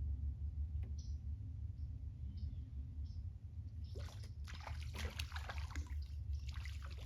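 Water splashing and dribbling, irregular and starting about four seconds in, as a small hooked fish thrashes at the surface while it is reeled in, over a steady low rumble.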